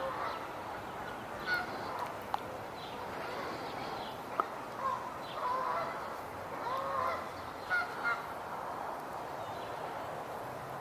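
Short honking bird calls, scattered irregularly, over a steady outdoor background noise, with a couple of sharp clicks.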